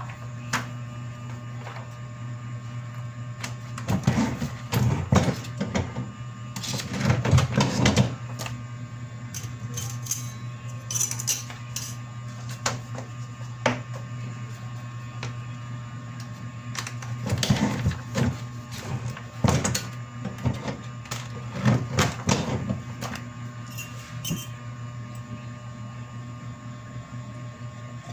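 A steady low electrical hum with irregular bursts of clattering and rustling. The bursts come in clusters about four to eight seconds in and again around seventeen to twenty-three seconds in.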